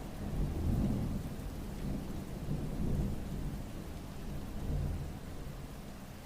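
Rain falling steadily under a low rumble that swells and fades three times.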